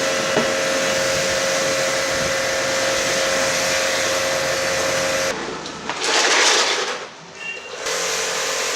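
A cleaning machine runs steadily, a hiss with a constant hum. About five seconds in it cuts off, a louder rush of noise follows for about a second, and then the steady hum and hiss come back.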